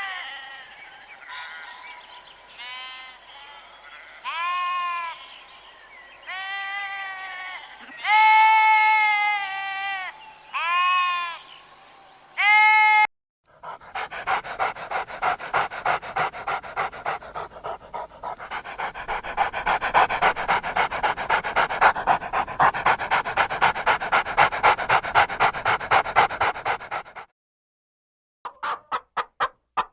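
A dog whining and yelping in a string of short calls that rise and fall in pitch, several seconds apart. About halfway through it switches to a long run of fast rhythmic panting, two or three pulses a second, which stops suddenly near the end.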